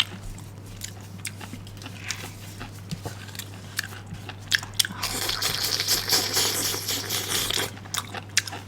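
Close-miked chewing and crunching of pickled bamboo shoots: a string of sharp crunches that grows denser and hissier about five seconds in. A steady low hum runs underneath.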